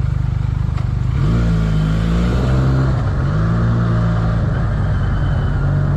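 Benelli 302R's inline two-cylinder engine on its stock exhaust, idling and then revving up about a second in, its pitch rising, dipping, then rising again.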